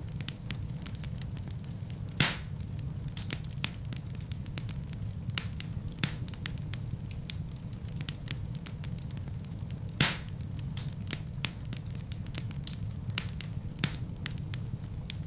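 Fireplace fire burning with a steady low rumble and constant crackling. Two louder pops stand out, about two seconds in and about ten seconds in.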